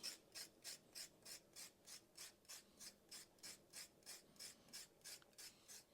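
A knife scraping the skin off a carrot: faint, even rasping strokes, about three a second.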